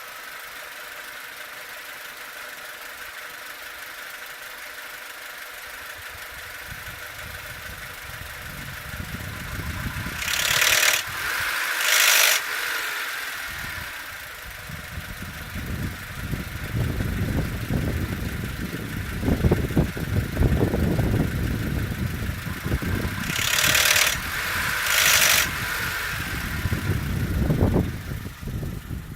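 Peugeot 307 engine idling, steady at first, then running rough and uneven with a lumpy low rumble, broken by two pairs of short loud bursts of noise about a second and a half apart. The owner's OBD scanner reads camshaft position timing over-advanced.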